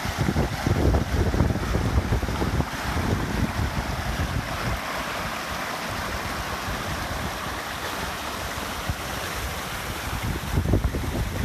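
A stream rushing steadily over rocks, with wind gusting on the microphone as low buffeting, strongest in the first few seconds and again near the end.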